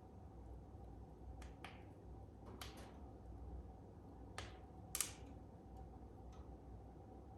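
Fire in a fireplace crackling: a few scattered pops and snaps, the loudest about five seconds in, over a low steady rumble.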